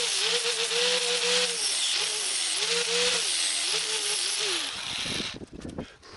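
Electric grinder working sheet steel: a loud hissing grind over a motor whine that sags in pitch each time it is pressed into the metal and recovers when eased off, then stops near the end.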